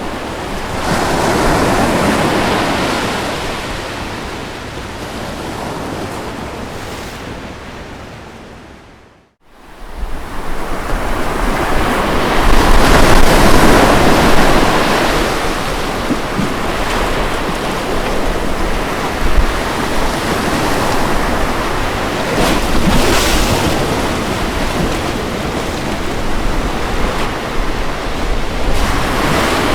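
Ocean waves washing onto a shore in slow surges. About nine seconds in the sound fades out to a moment of silence and then swells back, louder, with a low rumble underneath.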